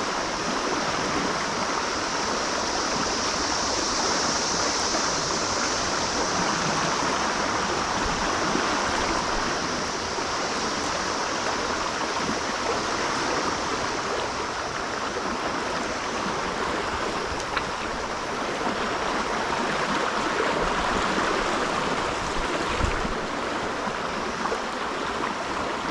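Steady rush of a flowing trout stream, running water with no break.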